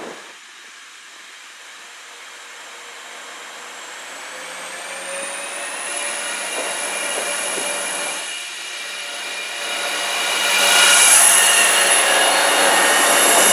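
Class 175 diesel multiple unit approaching, its engine noise growing steadily louder. A whine rises in pitch partway through and then holds steady, and the sound is loudest near the end.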